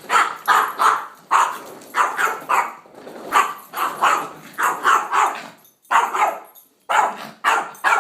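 Pet dog barking repeatedly, about two sharp barks a second, in defensive barking at a vacuum cleaner that is switched off, so no motor is heard.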